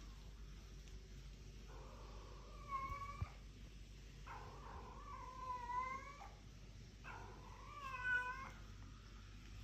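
A domestic cat meowing three times in long, drawn-out calls of about one and a half to two seconds each, the last one the loudest.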